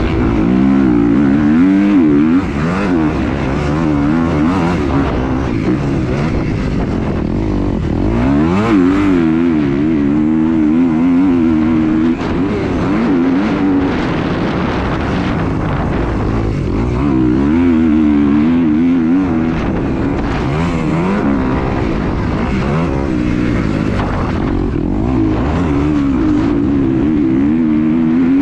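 A vehicle engine running, its pitch rising and falling again and again as it revs and eases off.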